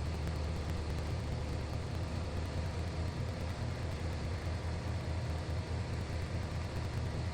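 Steady drone of a single-engine Piper Cherokee's piston engine and propeller heard inside the cabin in flight, with a hiss of rushing air over it.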